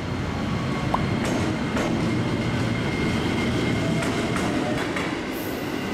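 LRT Jabodebek light-rail train running along the track: a steady rumble with a few light clicks from the wheels.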